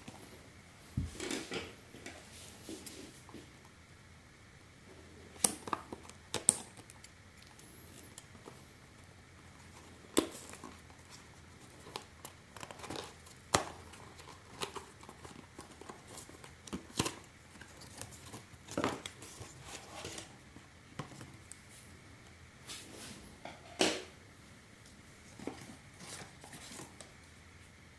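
Hands unpacking a cardboard box: a seal torn open, packaging rustling and crinkling, and scattered sharp clicks and knocks of cardboard and plastic being handled.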